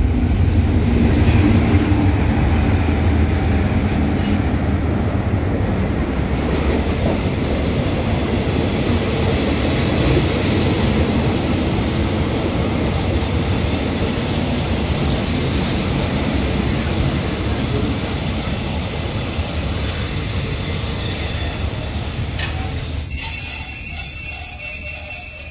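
Passenger train coaches rolling along a station platform: a steady rumble of wheels on rail, with high wheel squeals in the middle, loudest near the end.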